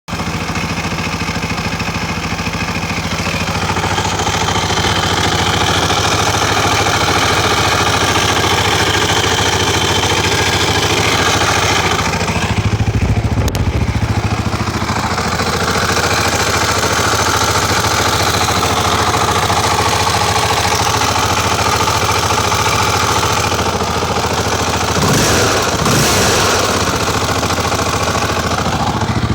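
KTM motorcycle engine idling, with a steady high squeak running over it: the squeaking problem the bike has. The squeak fades for a moment about halfway through, and near the end the engine note briefly rises and falls.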